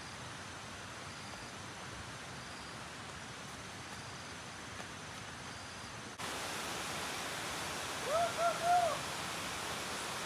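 Steady outdoor hiss that jumps louder at a sudden cut about six seconds in, then three short hooting calls from a bird near the end, each note rising and falling.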